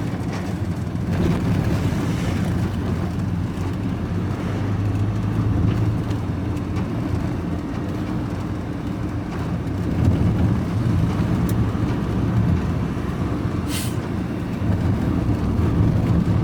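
Lorry engine running steadily with road noise, heard from inside the cab while driving, with one brief hiss near the end.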